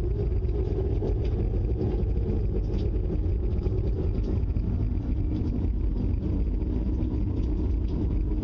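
The reported 'strange sky noise': a loud, steady, deep rumbling drone with a low droning hum in it and no breaks.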